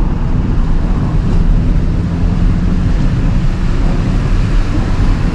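Plow truck driving, its engine running with tyre and road noise: a steady low rumble.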